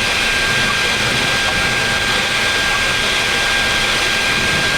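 Steady cockpit noise of a Boeing 737 MAX: jet engine and airflow noise with a thin, steady high-pitched tone.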